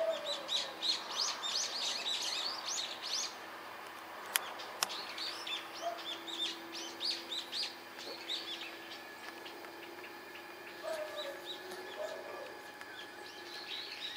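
Small birds chirping in quick runs of short, high chirps, busiest in the first few seconds and again around six to eight seconds in, over a faint steady low hum. Two sharp clicks come about four and a half seconds in.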